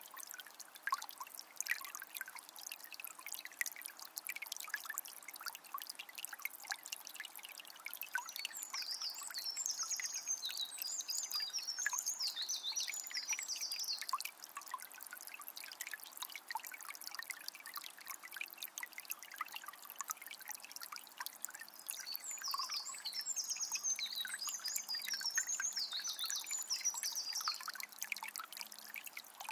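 A calm forest river flowing with a steady trickle and splash. A bird sings twice, each a few-second bout of quick, high twittering notes, about a third of the way in and again near the end.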